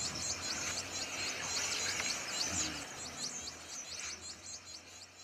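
A small bird's rapid series of short, high chirps, about four or five a second, repeated steadily and growing fainter toward the end.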